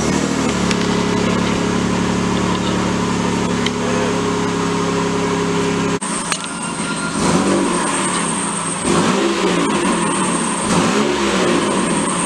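Car engine running at a steady idle, then after a cut revved in several short blips that rise and fall.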